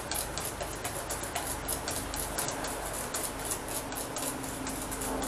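Wire whisk beating a thin egg, sugar and milk custard mixture in a stainless steel bowl: quick, even clicking and sloshing at about four strokes a second, stopping as the whisk is lifted out near the end. Faint music plays underneath.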